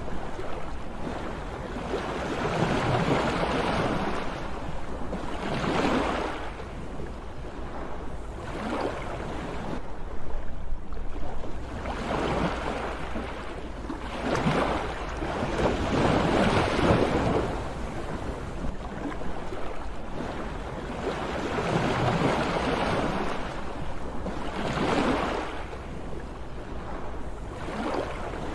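Sea waves breaking and washing in, the surf swelling and easing every few seconds over a steady low rumble.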